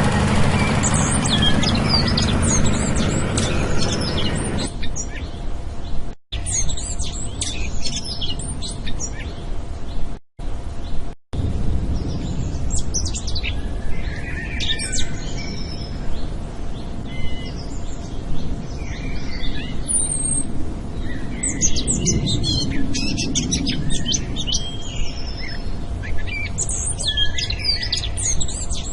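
Many small birds chirping and singing over a steady low rumble. A louder low drone fills the first four seconds or so, and the sound cuts out briefly three times.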